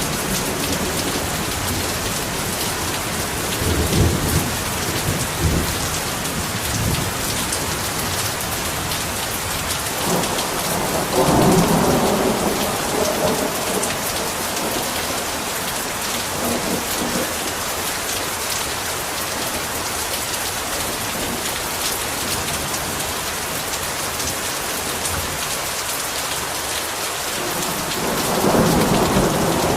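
Heavy rain falling in a steady hiss, with rumbles of thunder rolling in about four seconds in, again around eleven seconds, and once more near the end.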